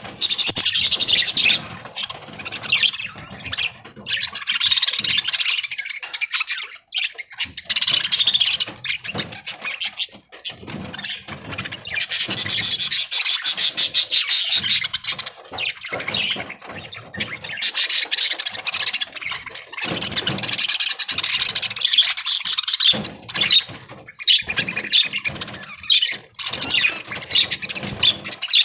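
A flock of budgerigars chattering: dense, fast warbling and chirping in stretches of several seconds separated by brief lulls, with scattered light knocks and scratches.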